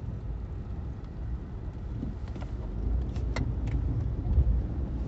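A car driving through snow, heard from inside the cabin: a steady low rumble of engine and tyres, with a few brief sharp clicks a little past the middle.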